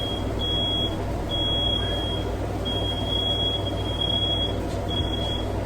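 A smoke alarm sounding a high, steady beep in repeated stretches with short breaks, set off by firework smoke in the room, over a steady background hum.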